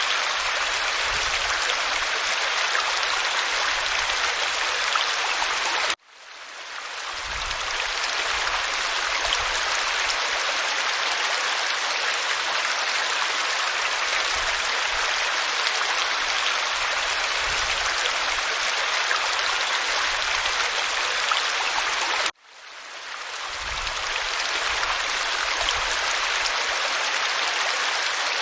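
Waterfall pouring over rock, a steady full rush of water. It cuts out abruptly twice, about six seconds in and again near the end, each time fading back up over a second or two.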